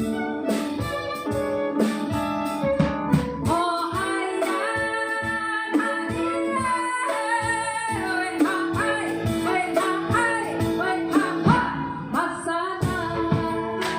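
Live band music: guitar-led accompaniment with a steady beat. A woman's singing voice comes in about three and a half seconds in and carries the melody.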